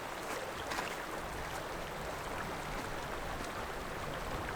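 Headwater river running low, a steady even rush of flowing water.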